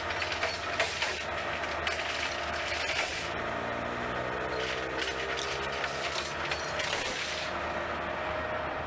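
A motor vehicle's engine running steadily, its pitch sliding slowly around the middle, with scattered clicks and knocks.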